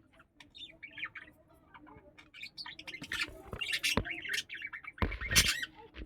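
Budgerigars chirping and chattering in quick, short notes. There is a sharp click about four seconds in and a brief loud rustle about five seconds in.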